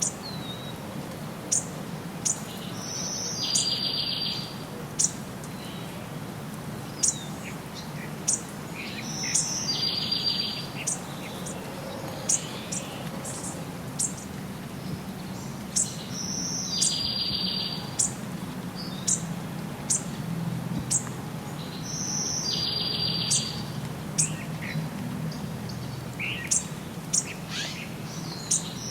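Wild birds singing: one bird repeats a short high song about every six or seven seconds, each ending in a buzzy trill, with sharp single chirps scattered between. A steady low hum runs underneath.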